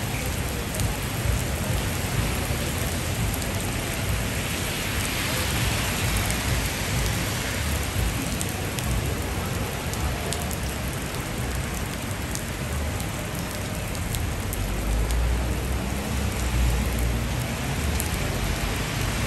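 Heavy rain falling on a wet city street: a steady hiss of rain with scattered drop ticks, over a low rumble that swells about fifteen seconds in.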